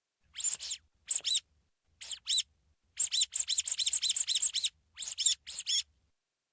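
Rubber duck squeak toy squeezed hard, giving short high squeaks. First come three pairs, then a quick run of about a dozen from the middle on, then three more near the end.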